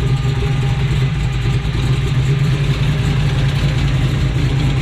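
Car engine idling close by with a steady low rumble.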